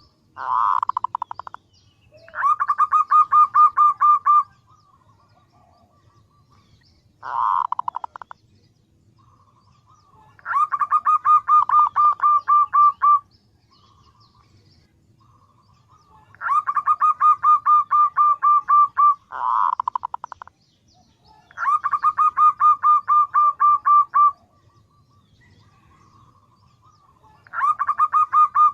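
Female zebra dove (perkutut) calling: rapid trains of short, evenly spaced notes, each train lasting two to three seconds and repeated about every five to six seconds, with shorter bursts in between. This is the call used as a lure to draw male zebra doves.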